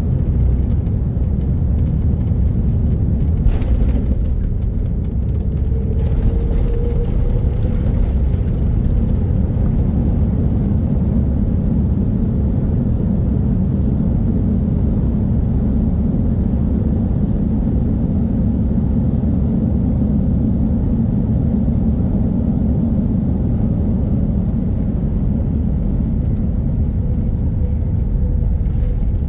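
Steady low rumble of engine and airflow noise inside the cabin of an Airbus A330-300 airliner during descent, with a brief sharp sound about three and a half seconds in.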